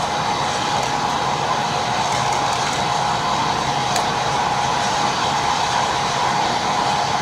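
Electric train running steadily: a constant rushing noise with a steady whine.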